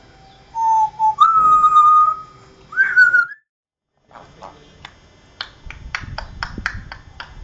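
Parrot whistling three notes, each higher than the last, the middle one held about a second and the last sliding upward. After a short break comes a run of sharp clicks, about two or three a second.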